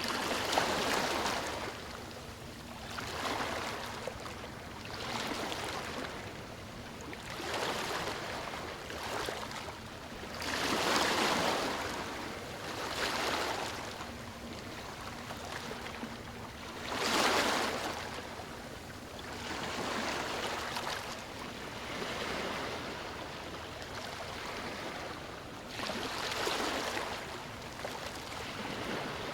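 Sea waves breaking and washing in on a shore, a surge of surf every two to three seconds, two of them louder than the rest.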